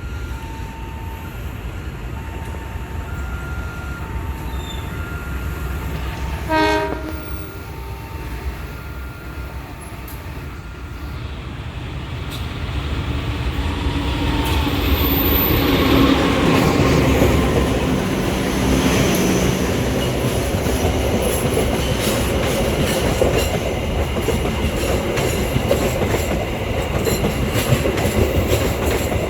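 An alternating two-tone warning signal beeps for the first several seconds, with a short train horn blast about seven seconds in. Then the KA Gumarang intercity train passes, its running noise building to a peak around the middle and carrying on with wheels clicking over the rail joints.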